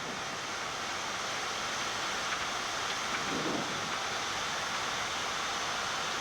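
Steady rushing hiss of a Boeing 787 flight deck in flight: airflow and air-conditioning noise heard inside the cockpit during descent.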